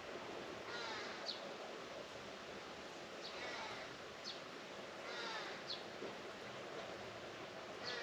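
Outdoor birdsong: a harsh call with many overtones, repeating every two to three seconds, with short, sharp high chirps between, over a steady background hiss.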